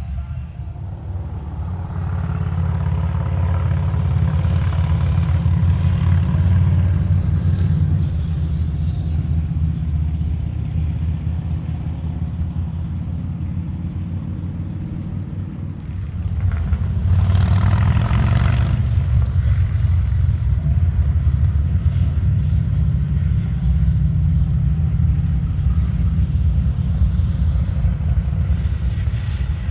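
Motorcycle engines running with a steady low rumble. A brief louder rush of noise comes a little over halfway through.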